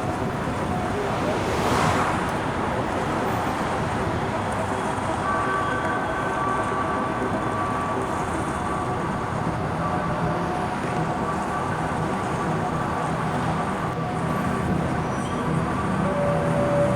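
Steady urban ambience: a continuous wash of city traffic noise. Long held tones join it about five seconds in, and a lower one comes in near the end.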